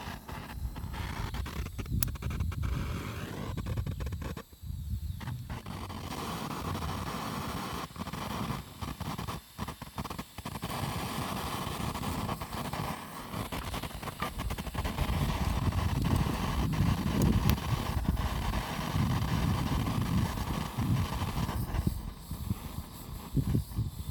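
Electric arc welding on iron, a steady crackling hiss that breaks off briefly a few times as the arc stops and is struck again.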